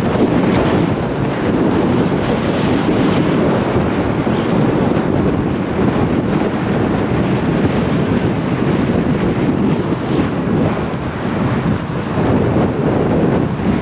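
Steady, loud wind rushing over the microphone of a moving vehicle, with road noise underneath.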